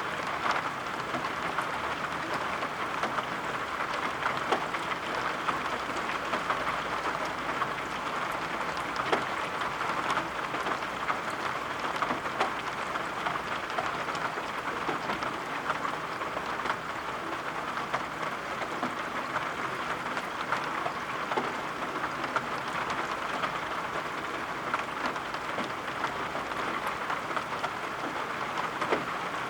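Steady rain, an even hiss dotted with a dense patter of individual drops.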